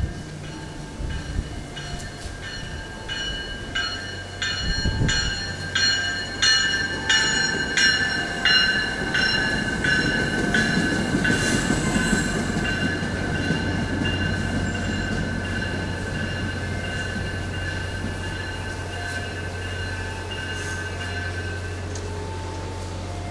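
Train rolling past with steel wheels squealing on the rails in several steady high tones. Regular clicks about two a second over the first third as wheels cross rail joints, under a steady low drone.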